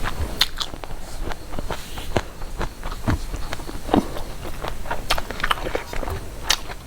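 Close-up eating sounds: irregular wet clicks and smacks of someone chewing food.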